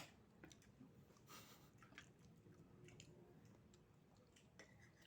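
Quiet chewing with scattered small clicks, and one sharp click right at the start.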